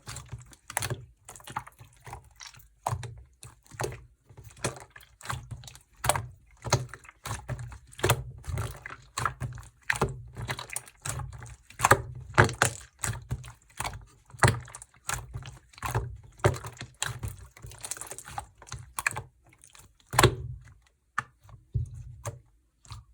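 Hands playing with translucent slime: quick irregular clicks, a few a second, with a louder one about twenty seconds in.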